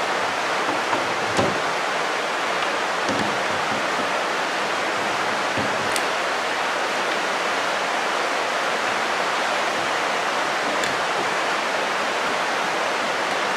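Steady rain falling, an even hiss throughout, with a few faint clicks from a screwdriver taking out screws.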